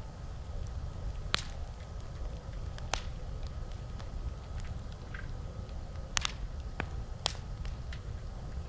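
Campfire crackling: wood popping in sharp, irregular snaps. Four louder pops come about a second and a half in, near three seconds, and twice in the last third, among many fainter ticks, over a steady low rumble.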